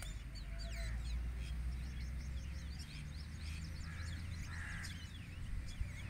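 Wild birds calling in a tree: many short, high chirping notes from several birds overlap one another, over a steady low rumble.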